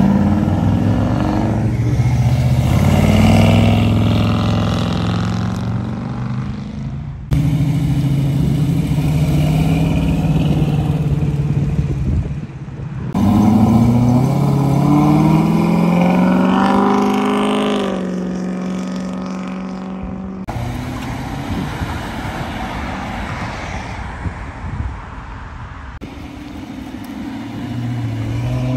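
Cars accelerating away one after another, each engine note climbing in pitch as it revs up, with several abrupt cuts between cars. Among them are a 1949–51 Ford sedan, a C5 Corvette's V8 and a Dodge Charger, with a quieter stretch of passing road traffic in the second half.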